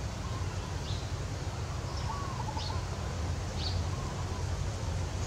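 Four faint, short, high bird chirps, spaced about a second apart, over a steady low outdoor background rumble.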